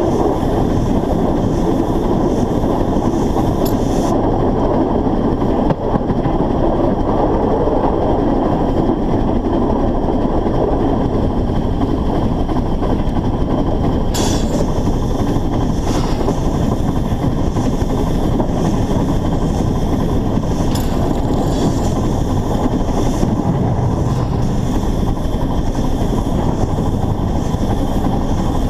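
Narrow-gauge steam locomotive under way, heard from a camera fixed to the locomotive: a steady, dense rumble and rush, with a few brief sharp clicks several seconds apart.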